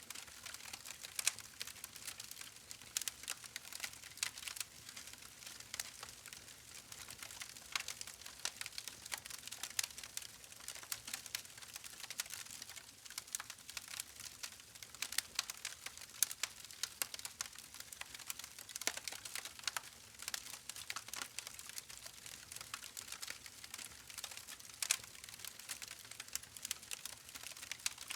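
Campfire burning, with many small irregular crackles and sharp pops from the wood over a faint steady hiss.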